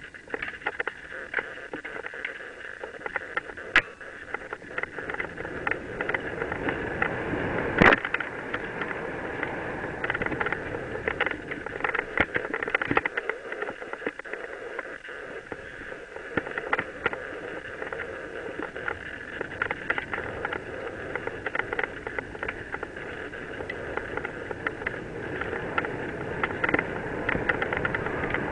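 Mountain bike riding downhill on a dirt trail: a steady rush of tyre and wind noise, with frequent sharp clicks and knocks as the bike rattles over bumps. The loudest knock comes about eight seconds in.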